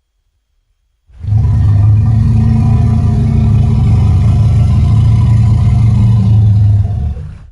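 Giant-monster sound effect for King Kong: a long, low, steady rumble that starts about a second in after silence, holds for about six seconds and fades out near the end.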